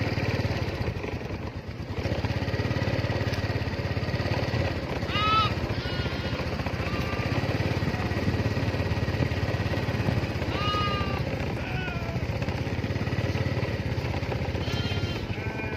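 Sheep bleating a few times, short wavering calls, over a steady low engine-like drone.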